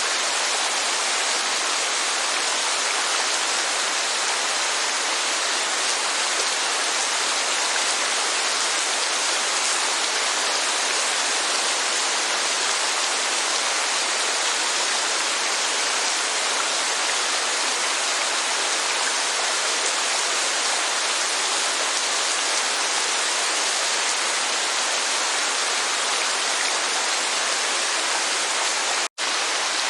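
Steady rushing of heavy rain and falling water, an even hiss with no single drops standing out. It cuts out for an instant about a second before the end, then carries on.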